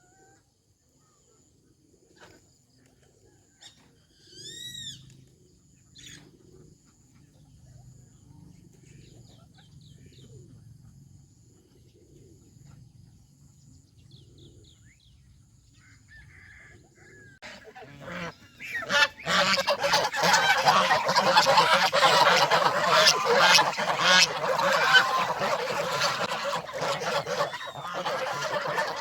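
Domestic geese: quiet at first apart from one short bird call about five seconds in, then about eighteen seconds in the flock breaks into loud, continuous honking from many birds at once.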